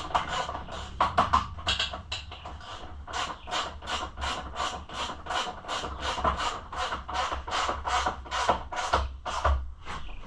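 Socket ratchet wrench being worked back and forth to snug a bolt, a rapid run of ratcheting strokes about three a second.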